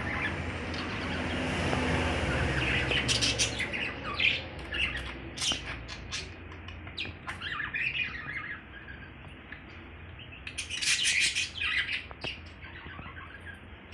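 Pet lovebirds chirping and squawking in short, scattered calls, busiest about eleven seconds in. A steady rushing noise with a low hum lies under the first three seconds.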